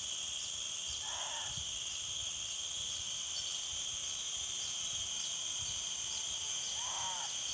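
A steady chorus of insects trilling at several high pitches at once, with a faint regular ticking over it. Two brief, faint mid-pitched sounds come through, about a second in and near the end.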